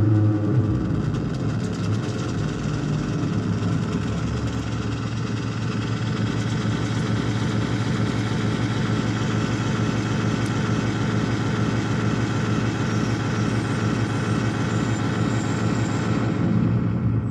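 Analog noise synthesizers (a Bleep Labs Pico Paso and a Korg Monotron Delay) played through a mixer's echo and an analog delay pedal, with the delay fed back into the mixer: a steady, dense drone of many layered tones over a heavy rumble. The upper hiss drops away just before the end.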